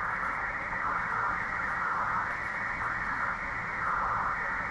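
Steady band noise from a 20-metre amateur radio receiver in single-sideband mode, a hiss cut off sharply above the voice passband, while the operator waits for the other station's reply.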